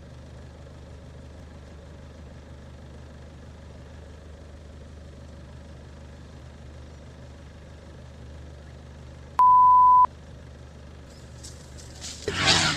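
Low steady hum under a single loud beep of one pitch, held for well under a second about nine and a half seconds in, the kind of censor bleep laid over a word; a loud rough noise starts near the end.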